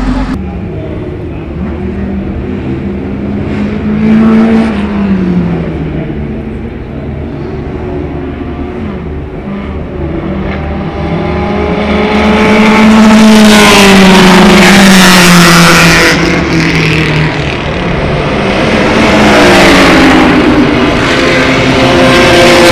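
Classic racing car engines running hard as several cars pass at speed, their pitch rising and falling through gear changes and as they go by. The loudest pass comes a little past the middle.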